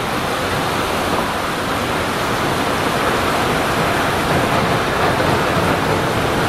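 Steady rushing rumble of a train hauled by the Ōigawa Railway E101 electric locomotive with four old passenger coaches, running onto a steel bridge.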